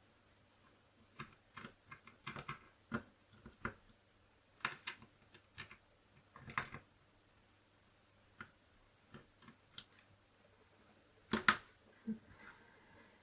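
Irregular light clicks and taps, some single and some in quick clusters of two or three, with the loudest pair about eleven seconds in.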